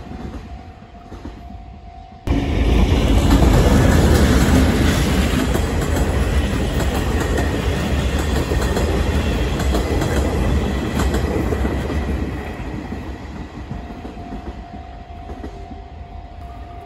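Taiwan Railway blue-coach ordinary train, hauled by a diesel-electric locomotive, passing close by: a sudden loud rush of locomotive and wheel-on-rail noise about two seconds in, holding for about ten seconds as the coaches roll past, then fading. Before it comes the fainter sound of an earlier electric train moving away.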